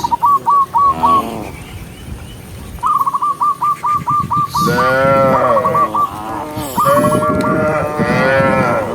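Cattle mooing: two long moos in the second half, with quick runs of short high chirps, about five a second, near the start and again in the middle.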